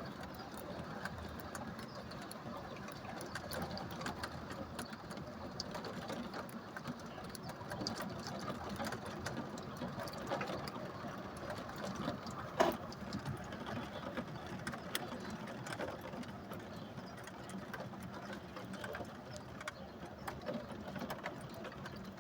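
Rain mixed with some small hail striking a surface: a dense, irregular patter of small ticks, with one louder hit about halfway through.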